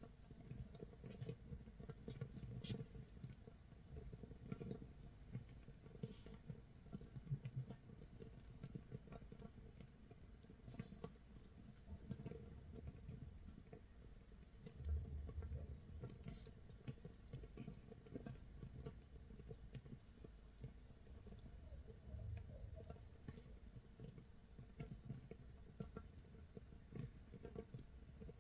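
Makgeolli starter mash fermenting in a crock 24 hours in: a faint, dense, irregular crackle of tiny popping bubbles, like rain or toasting scorched rice.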